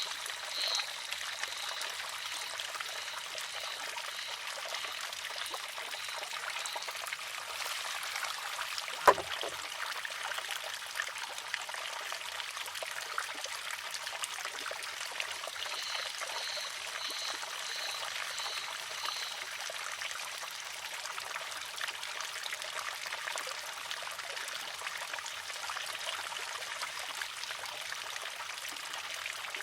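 Water trickling and pouring steadily through a wooden shishi-odoshi. About nine seconds in, its arm tips and strikes the rock with one sharp clack. A high chirp repeats about twice a second near the start and again a little past the middle.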